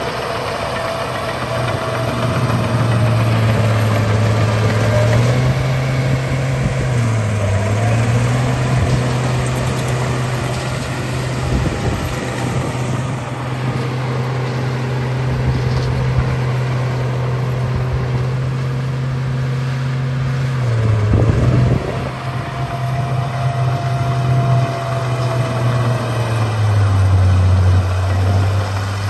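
Bulldozer engine running steadily under load. Its note steps up a few seconds in, dips briefly twice, and settles lower near the end, with a higher whine over it at times.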